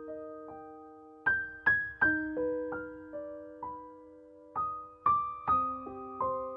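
Slow, gentle piano music: single notes and small chords struck a few at a time, each left to ring and fade, with short pauses between phrases.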